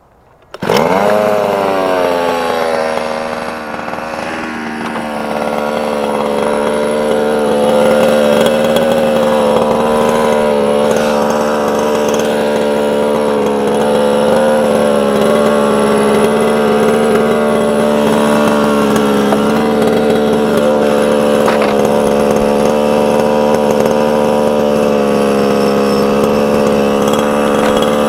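Losi 5ive-T's small two-stroke gas engine starts up about half a second in, its pitch dropping over the next second or two as it settles, then runs at a steady idle.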